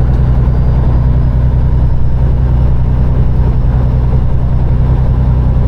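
Peterbilt 389 semi truck's diesel engine running at a steady speed, heard from inside the cab as a loud, even low drone.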